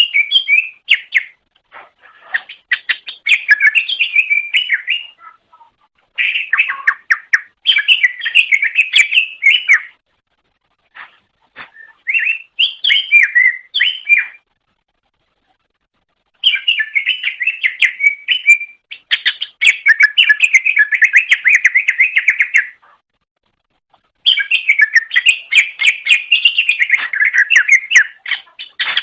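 Cucak ijo (green leafbird) singing in long, rapid phrases of varied chirps and whistles, with pauses of a second or two between phrases.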